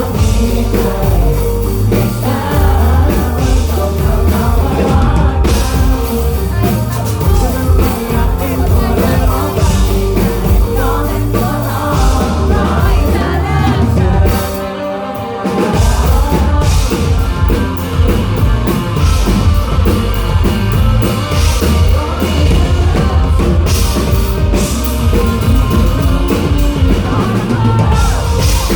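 A live rock band playing loudly, with singing, drum kit and bass. Near the middle the bass and drums drop out for about a second, then the full band comes back in.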